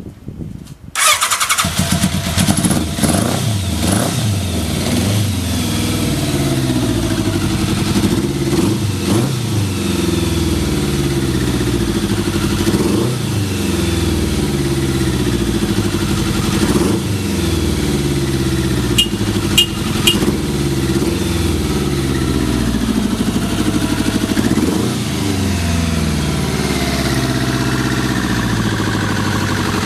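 Kawasaki GPZ1100 inline-four motorcycle engine catching on the first press of the electric starter about a second in, then idling steadily: a sign of a healthy engine that starts and idles cleanly. A few short high ticks come around two-thirds of the way through.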